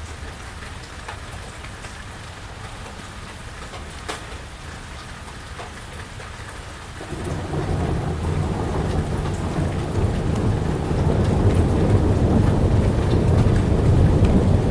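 Steady rain falling on the porch and surfaces around it, with an occasional sharp drip. About halfway through, a long, deep rumble of thunder rolls in and swells, growing louder toward the end.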